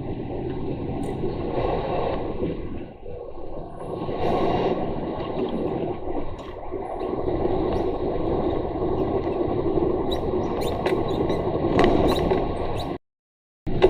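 Steady engine and road noise inside a lorry cab on the move, with small squeaks and clicks scattered through it. The sound cuts out completely for a moment near the end.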